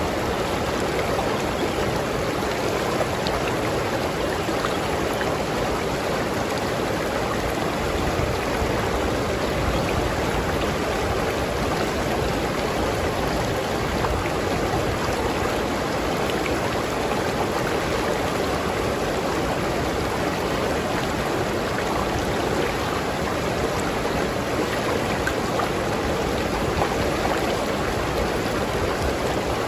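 River water flowing in a steady, even rush, with no change in level.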